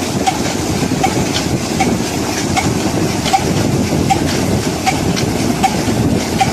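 Old Ruston & Hornsby diesel engine running steadily at slow speed, with a sharp click about every three-quarters of a second over a continuous mechanical clatter.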